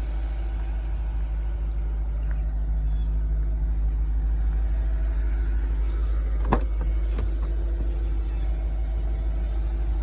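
A 2004 Audi S4's 4.2-litre V8 running steadily, not yet fully up to operating temperature, with a deep rumble. A sharp click comes about six and a half seconds in.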